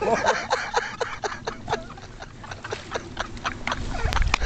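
People laughing hard in quick, breathy bursts, about three or four a second, dying down midway and picking up again. There is a low rumble and a sharp click near the end.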